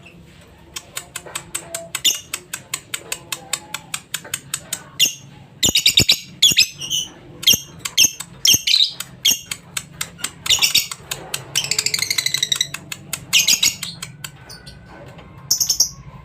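Lovebird chattering song: a quick run of sharp chirps and clicks that breaks into bursts of high, rapid trills, with short pauses between phrases.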